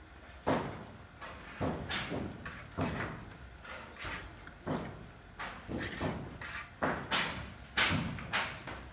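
Hand building work: a run of sharp, short scraping or knocking strokes, irregularly spaced at roughly one to two a second.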